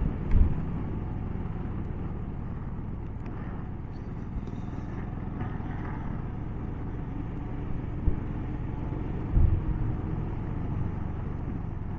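Motorcycle engine running steadily at low road speed, with a few dull low thumps.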